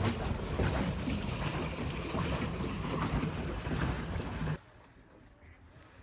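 Wind buffeting the microphone over water noise, with a rough low rumble, out on a small boat on a lake. It cuts off suddenly about four and a half seconds in, leaving a faint quiet background.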